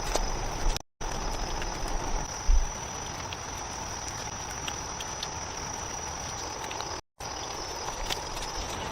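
Steady insect chorus, a constant high-pitched drone over an even hiss, with a single low thump about two and a half seconds in. The sound drops out to silence twice, briefly, about a second in and near the end.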